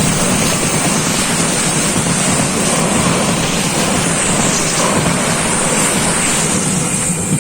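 Train passing close by at a level crossing: a loud, steady rushing noise of wheels and carriages on the rails.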